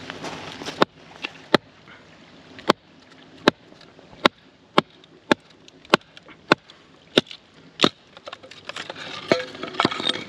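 Wood being chopped: about a dozen sharp, regular strokes, roughly one every 0.7 seconds, then quicker, irregular knocks and clatter near the end.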